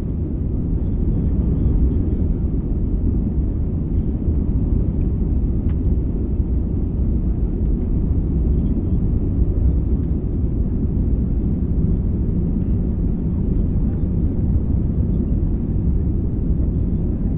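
Airliner cabin noise in flight: a steady low rumble of engines and airflow with a faint high hum, and a few faint clicks.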